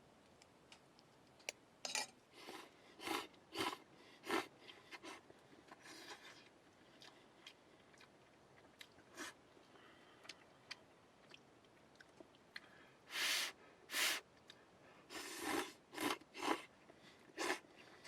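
A person eating ramen noodles: short slurps and chewing sounds at irregular intervals, with a run of longer slurps near the end.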